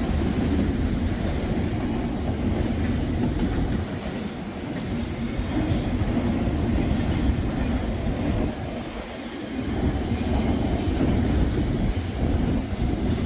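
Freight train cars rolling past on the rails, a steady rumble of wheels with some clickety-clack, and gusts of wind buffeting the microphone.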